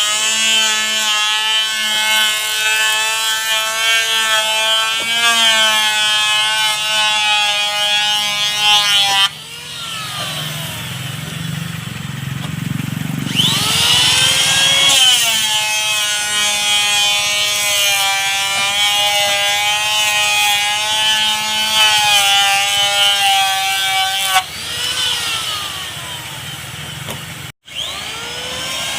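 Handheld electric power tool working wood, its motor whining with a pitch that wavers under load. It winds down about nine seconds in, starts up again about four seconds later, winds down again near the end, then restarts.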